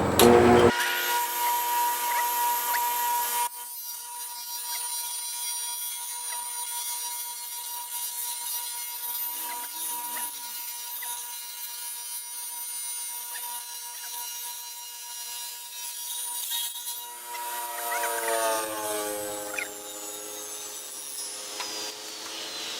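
Table saw starting up and running with a steady whine while it cuts a sheet of Lexan polycarbonate in half. Near the end the pitch falls as the blade spins down after the saw is switched off.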